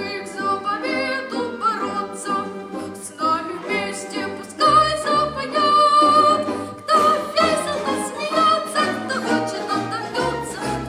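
A solo voice singing in academic style with an orchestra of Russian folk instruments, over plucked bass notes. A long high note is held in the middle of the passage.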